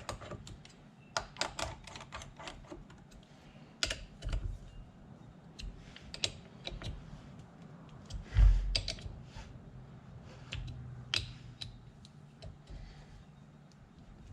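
Irregular light clicks and taps of a steel lathe chuck and its bolts being handled and fitted on a freshly tapped hub, with one dull thump about eight and a half seconds in.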